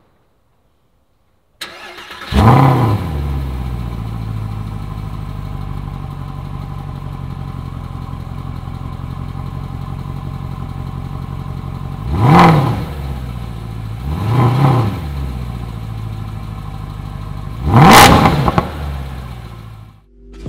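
Mercedes-Benz SLS AMG 6.3 V8 starting: a brief crank, then the engine catches with a loud flare and settles to a steady idle. Three throttle blips follow, the last one the loudest, and the sound cuts off just before the end.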